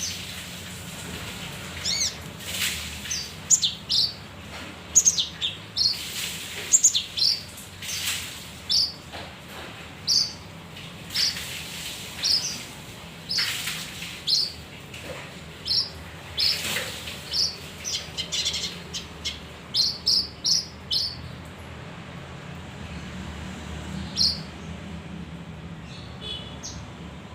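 Male kinoi songbird chirping: many short, sharp, high notes in irregular bursts, with a few softer rustles among them and a brief lull near the end.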